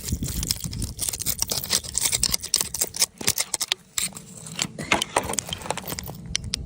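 Rapid, irregular scratching and scraping against rock, with many quick clicks and taps, as crystals are dug out and cleaned.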